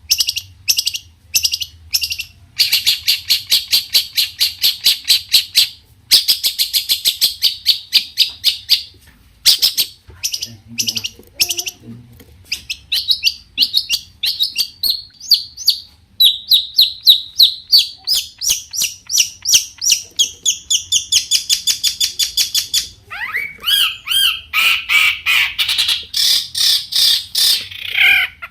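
Long-tailed shrike (cendet) singing loudly in rapid runs of short repeated notes, phrase after phrase with short breaks between them. Near the end the song turns more varied, with notes sliding up and down.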